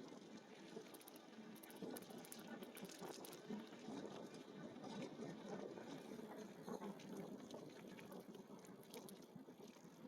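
Steady, faint rolling noise from riding an e-bike: tyres on pavement and air over the microphone, with scattered light ticks.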